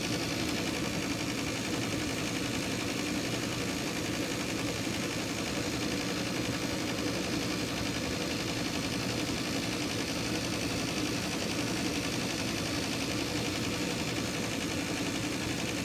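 Carrier gas furnace's draft inducer fan running with a steady hum at the purge stage of the ignition sequence, before the gas valve opens. The hot-surface igniter is cracked and not heating.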